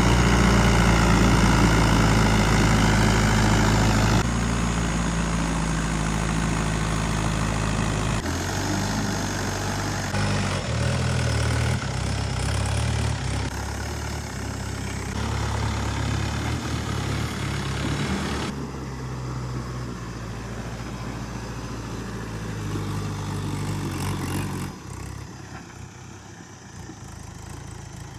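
Diesel tractor engine running, heard in several stretches that change pitch and level abruptly, as if cut together, and grow quieter toward the end.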